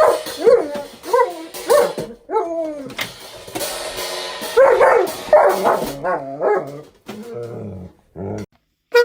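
A dog barking and yelping over and over in short, pitch-bending calls, with music playing behind.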